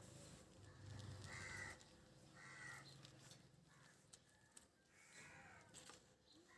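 A bird giving three short calls, two about a second apart and a third about five seconds in, over a faint low rumble that dies away in the first two seconds.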